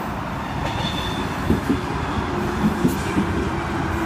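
Sydney Trains Tangara (T set) electric train running into the platform, its wheels and motors making a steady rumble with a few clicks over the rails and a faint steady whine near the end.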